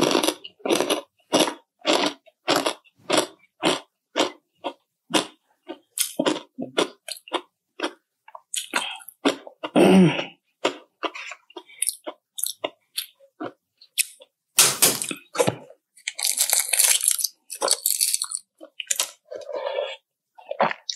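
Close-up chewing and crunching of chicharon (crispy fried pork rinds), at about three chews a second for the first eight seconds, then more irregular, with louder bursts about ten and fifteen seconds in.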